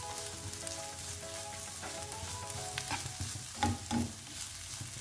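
Grated coconut, shallots and spice paste sizzling in hot oil in a non-stick pan while a spatula stirs and scrapes through them, with a few sharper knocks of the spatula on the pan about three to four seconds in.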